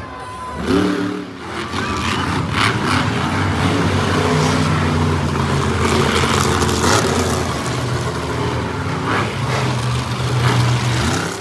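Monster truck engine revving, rising in pitch about a second in, then running steadily.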